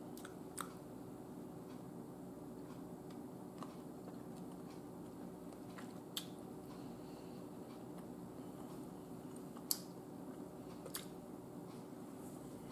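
Faint chewing of a mouthful of soft chicken fettuccine, with about five sharp mouth clicks spread through it, the loudest near the end, over a steady low hum.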